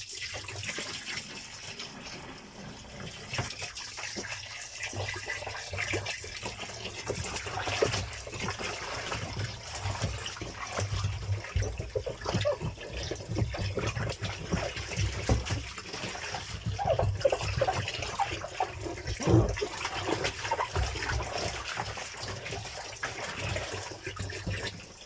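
Water running from a tap while a washing machine part is rinsed and cleaned, with scattered knocks and clatter of the part being handled.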